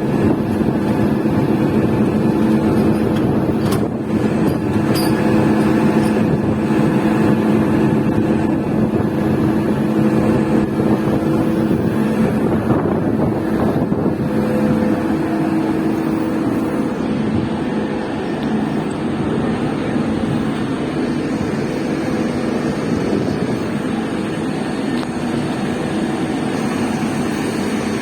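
A boat engine running steadily with a low, even hum, easing slightly in the second half.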